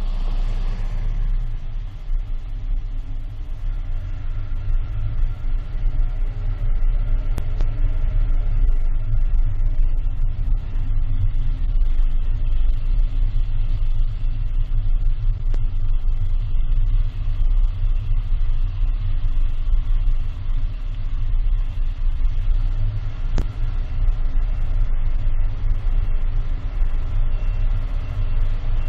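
A car being driven, heard as a steady low engine and road rumble.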